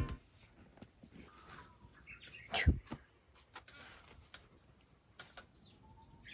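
Quiet outdoor ambience with a few brief bird chirps and one sharp click or knock about halfway through.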